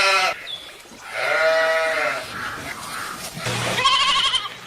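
Sheep bleating: a call ends just after the start, a long bleat follows about a second in, and a quavering bleat comes near the end.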